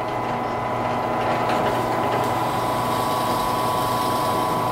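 Electric drill running steadily at an even pitch, boring half-inch drainage holes in the birdhouse's wooden floor.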